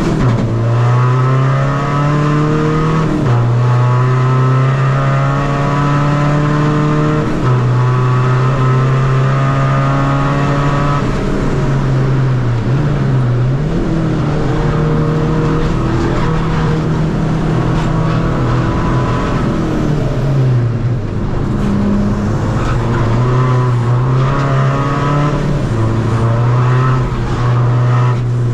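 Tuned 2.0 common-rail diesel engine of a Seat Ibiza FR, with race camshafts, driven hard around a race track. Its note holds for a few seconds at a time and then steps up or down with throttle and gear changes, several times over.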